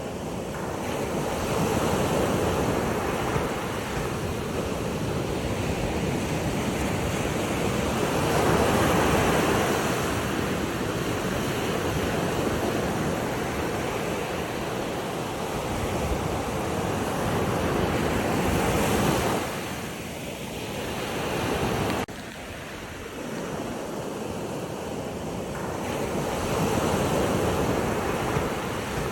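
Sea waves washing in, the rush of water swelling and ebbing every several seconds, with a sudden drop in level about two-thirds of the way through.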